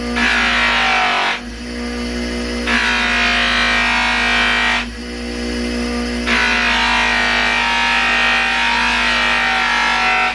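An electric motor-driven abrasive wheel running steadily, with a metal door plate pressed against it three times for a couple of seconds each, the pitch sagging under the load each time. It is wearing through the worn area of the part.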